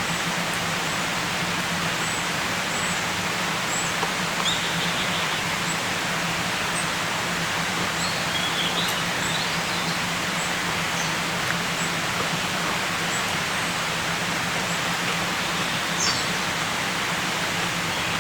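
A steady rushing outdoor noise, like running water or rain, with faint short bird chirps scattered high above it.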